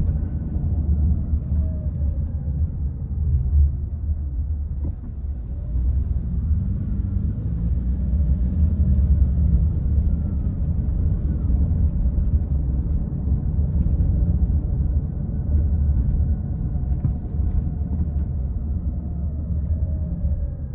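Car driving along a road: a steady low rumble of engine and tyres, with faint tones that rise and fall slightly as the speed changes.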